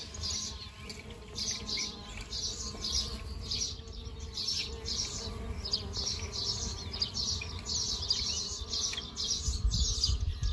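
Small songbirds chirping in short, high, repeated notes, about two a second, over a low steady rumble.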